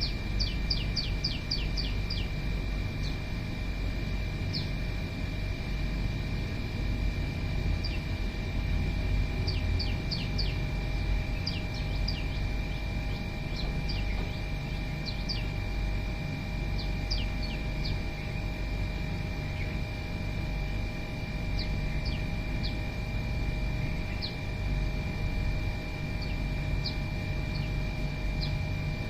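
Small birds chirping: a fast run of short, falling chirps near the start, then single chirps and small groups scattered throughout. Under them runs a steady low rumble and a constant high-pitched whine.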